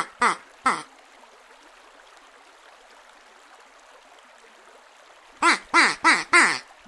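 A duck quacking in quick series: three quacks at the start, then after a pause of about four seconds a run of four more near the end, each quack dropping slightly in pitch. A faint steady hiss of water runs underneath.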